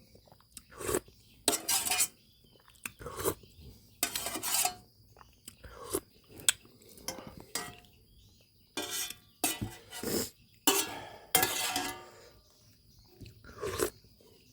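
Spoon clinking and scraping against a bowl, mixed with eating sounds, in a dozen or so short irregular bursts.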